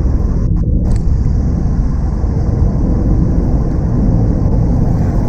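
Steady low rumble of wind buffeting and road noise in a Mazda MX-5 (NC) roadster driving with the top down, its 2.0-litre engine running underneath.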